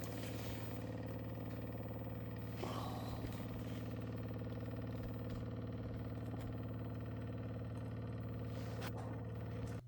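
Small electric transfer pump, the "click clacker", running steadily as it pumps used engine oil and diesel, then cutting off suddenly near the end.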